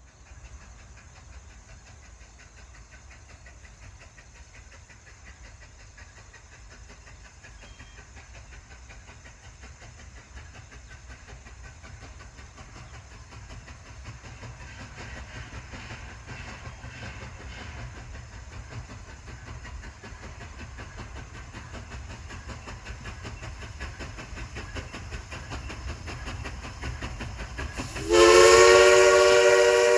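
Steam train running, a low rumble that grows gradually louder for most of the half-minute. Near the end the steam locomotive's whistle blows loudly, a chord of several tones sliding up briefly in pitch as it opens, then held.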